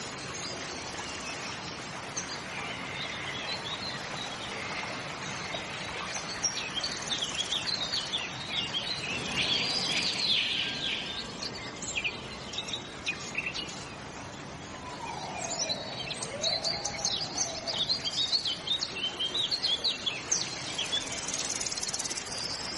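Birds chirping and calling in short high trills, over a steady outdoor hiss, with a lower sliding call a little past the middle.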